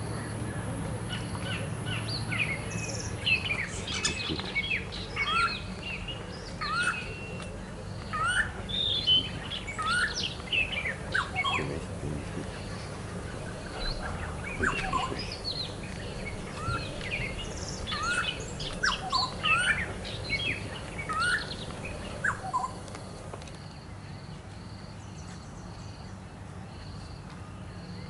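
Birds singing and calling in short whistled phrases, many notes sliding up or down, over a faint low hum and a steady repeated high pip. A little before the end the song stops and only the quieter background with the pip remains.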